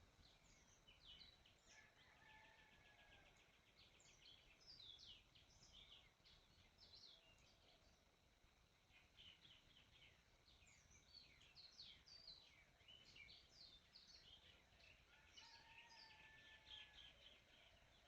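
Faint birdsong: several birds chirping rapidly in quick high notes, with two short trills, about two seconds in and near the end.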